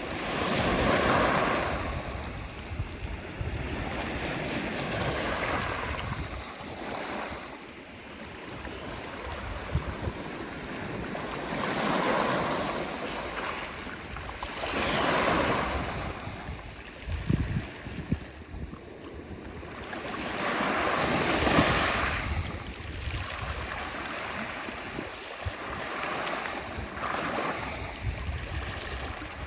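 Sea waves breaking and washing on the shore, the surf rising and falling in slow swells every few seconds.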